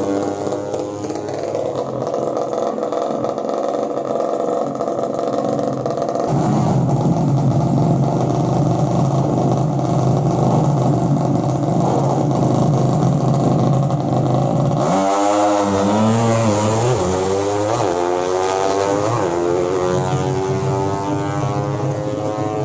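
Racing underbone motorcycle engines running and revving, their pitch rising and falling. About fifteen seconds in the sound changes abruptly to quick up-and-down revs.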